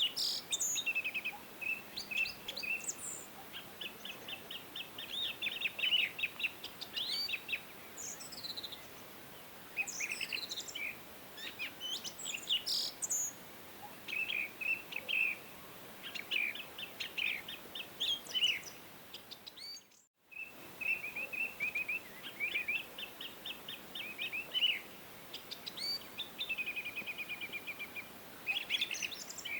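Songbirds singing: short chirps and rapid trilled phrases, several overlapping, over a faint steady hiss. The sound drops out completely for a moment about two-thirds of the way through, then the birdsong resumes.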